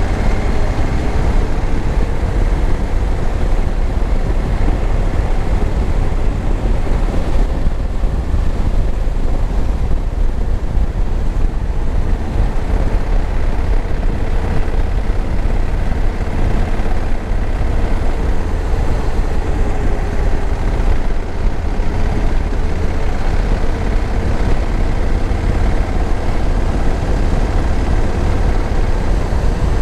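2021 Honda Africa Twin's parallel-twin engine running at a fairly steady road speed, its note drifting gently up and down, under a constant heavy rush of wind and road noise.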